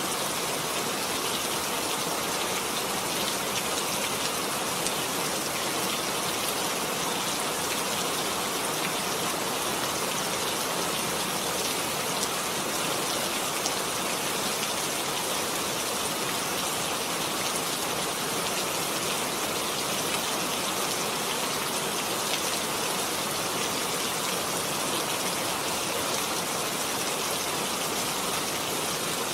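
Heavy rain falling steadily: a dense, even hiss of many drops with fine pattering, no thunder or breaks.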